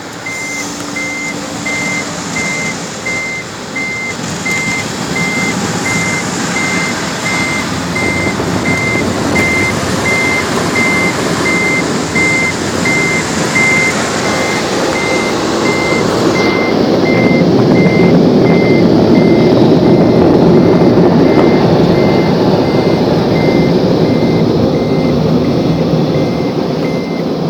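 Automatic car wash dryer blowers running with a steady rushing roar, heard from inside the car, growing louder about two-thirds of the way through as the blowers come closer. A steady beep repeats about every two-thirds of a second throughout.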